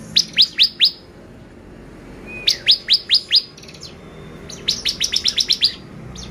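Bar-winged prinia (ciblek) singing: two phrases of four sharp, sweeping high notes each, then a faster run of about ten notes near the end.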